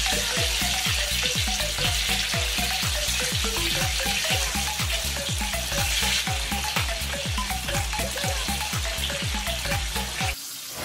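Turon, banana rolls in lumpia wrappers, frying in hot oil in a pan: a steady, bright sizzle as freshly added raw rolls start to cook. The sizzle cuts off shortly before the end.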